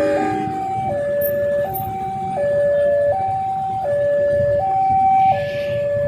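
Railway level-crossing warning alarm sounding a steady two-tone high-low signal, changing pitch about every three-quarters of a second, over road traffic. A horn cuts off about half a second in.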